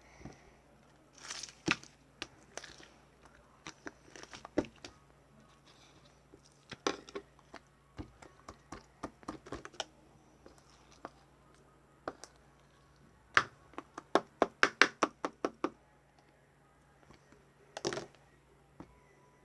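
Marbled slime being squeezed and poked by hand, giving irregular bursts of sharp clicks and pops, with a quick run of about ten clicks about three quarters of the way through.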